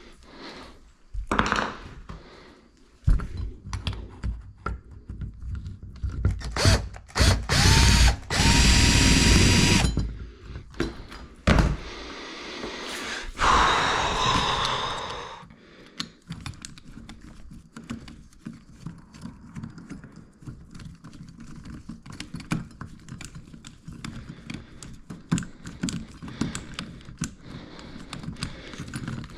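Power drill running in a short burst, its motor whine rising and then holding steady for about two seconds, with a second, noisier run a few seconds later. Scattered knocks and clatter from hand work come before and after.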